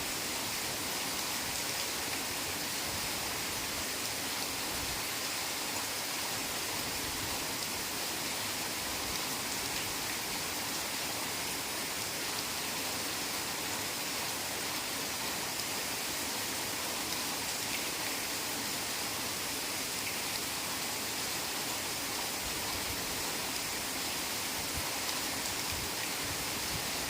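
Steady heavy rain, a dense even hiss with no distinct drops or breaks.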